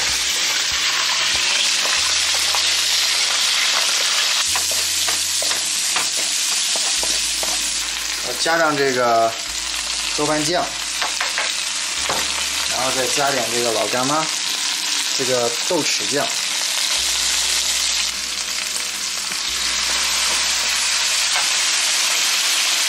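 Crab pieces and then sliced onions sizzling in oil in a hot nonstick wok as they are stir-fried, a wooden spatula stirring and scraping through them. A few short wavering tones come through in the middle.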